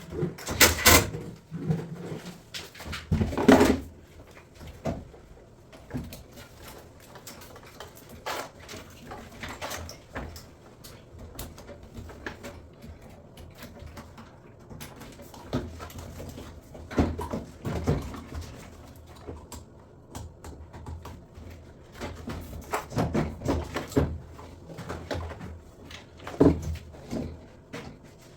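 Irregular knocks, clunks and clatter from washing-machine parts and tools being handled, loudest about a second in and again near three and a half seconds.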